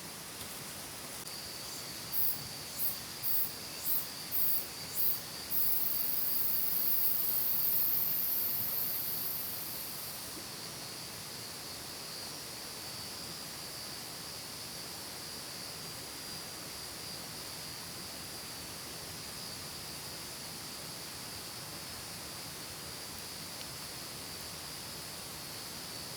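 Insects singing: one keeps up a steady high trill, while another gives six short, evenly spaced pulses and then a continuous very high buzz that fades out after a few seconds, over a steady hiss.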